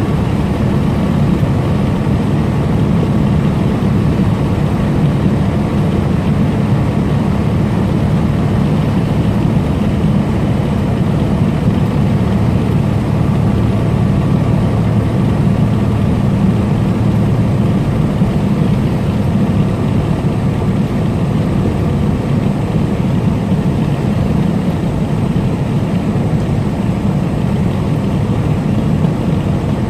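Tractor-trailer's diesel engine and road noise while cruising on the interstate, a steady low drone that does not change.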